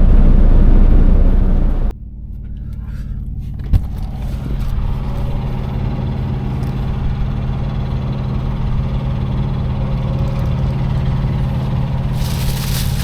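Loud low rumble that cuts off abruptly about two seconds in. After it, a truck's diesel engine idles steadily, with a single sharp click about four seconds in.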